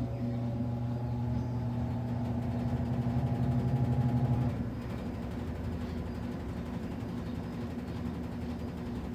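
Midea Wave-Agitator top-load washing machine running: a steady motor hum with a slowly rising tone that cuts off about four and a half seconds in, leaving a quieter hum.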